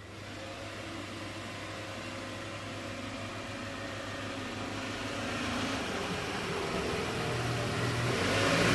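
A steady mechanical hum with a hiss over it, fading in after a sudden cut and slowly growing louder.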